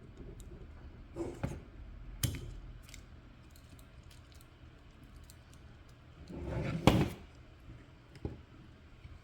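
Small parts and hand tools being handled while taking apart a toy-grade RC car: scattered light clicks and knocks, with a louder rustling handling noise and a sharp click about seven seconds in.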